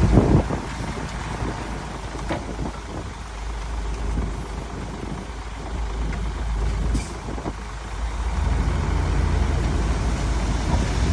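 Heavy diesel earthmoving machinery running with a deep rumble, growing louder from about eight and a half seconds. A loud knock comes right at the start and a short hiss about seven seconds in.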